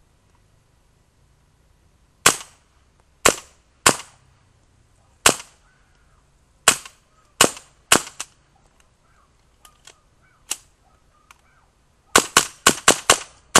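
Suppressed .22 LR shots from a short-barrelled Bushmaster AR-15 with a Ciener .22 conversion kit and a Coastal .22 suppressor: eight or so single shots about a second apart, then a fast string of about seven shots near the end.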